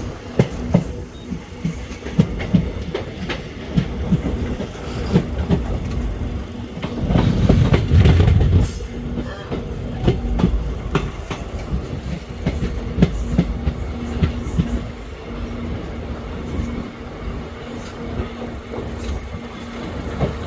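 Train running on the rails, its wheels clicking over rail joints again and again over a steady hum, with a louder rumble swelling for a couple of seconds about a third of the way in.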